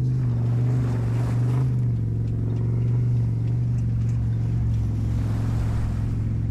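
Truck engine running at a steady speed while driving off-road, a constant low drone with a rushing noise over it.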